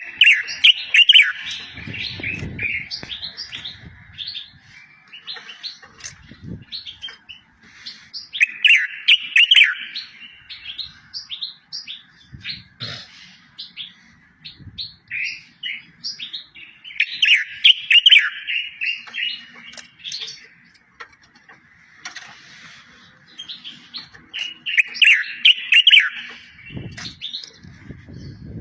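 A songbird singing a tutor song for training goldfinches and canaries. About every eight seconds comes a loud burst of rapid chirps and trills, four in all, with softer twittering between them.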